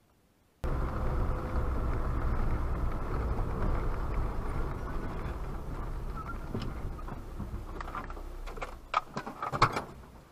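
Car engine running, heard from inside the cabin: a steady low rumble that starts suddenly and slowly dies away. A few sharp clicks and knocks near the end.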